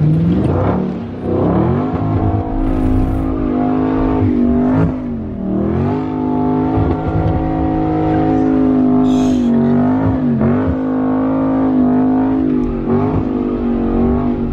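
Car engine revving up over the first two seconds and held at high revs, with brief drops in pitch about five and ten seconds in, as the car spins its wheels and slides on wet pavement.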